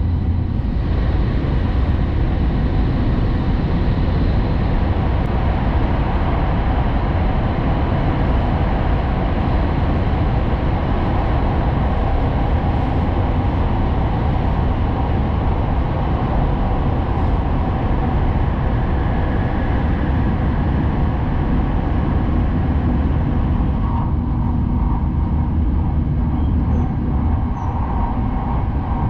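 Cabin noise of a Hayabusa Shinkansen train running at speed: a steady, deep rumble with an even rushing noise over it.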